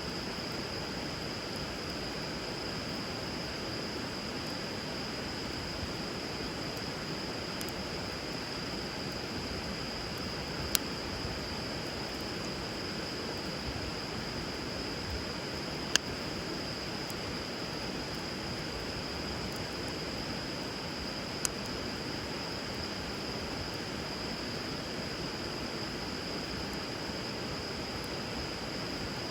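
Steady rush of river water, with a wood fire crackling on it and giving three sharp pops, about a third, halfway and two thirds of the way through.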